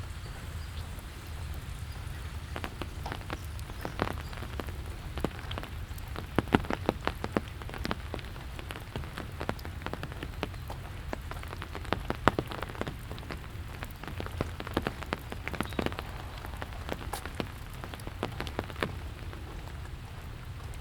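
Steady rain falling, with many irregular sharp ticks of drops landing close by, thickest through the middle, over a low steady rumble.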